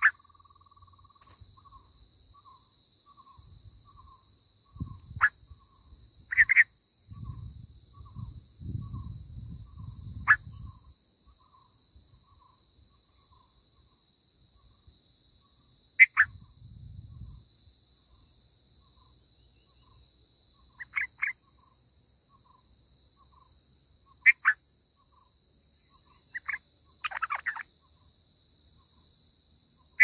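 Short, sharp bird chirps, single or in quick pairs, a few seconds apart. They sit over a steady high insect buzz and a soft note repeating about twice a second. Brief bursts of low rumble come about a third of the way in and again near the middle.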